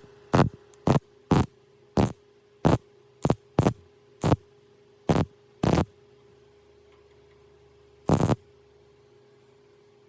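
MIG welder laying a series of short tack welds to fill old mirror holes in a steel truck door: about a dozen brief bursts of crackle at irregular spacing, mostly in the first six seconds, with one more near the end, over a faint steady hum.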